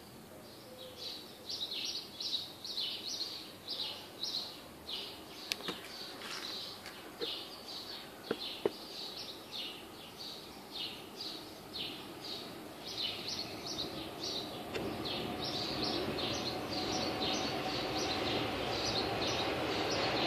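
Birds chirping over and over, short high chirps about two a second, with a few sharp clicks in the middle. A steady background noise grows louder in the second half.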